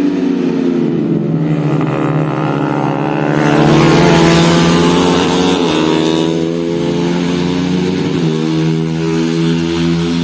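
Motocross motorcycle engines running hard on track, with the engine note bending up and down as bikes shift and pass; the loudest moment, about four seconds in, is a bike going close by.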